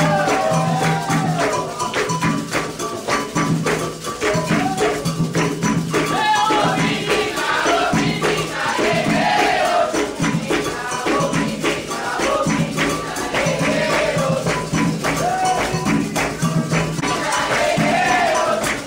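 Candomblé ritual music: a dense, steady rhythm of drums and rattling percussion with voices singing over it.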